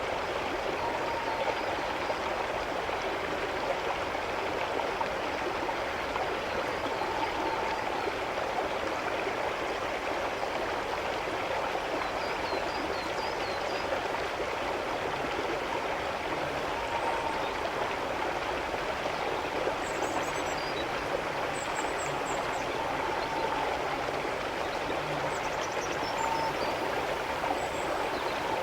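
A stream of running water flowing steadily, an even unbroken rush, with a few faint short high chirps now and then.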